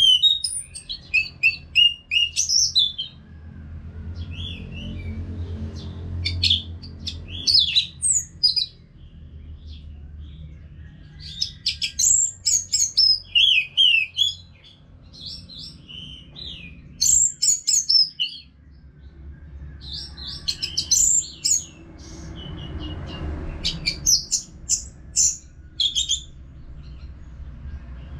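Orange-headed thrush singing: repeated bursts of rapid, high, varied whistled phrases with short pauses between them, over a faint low rumble.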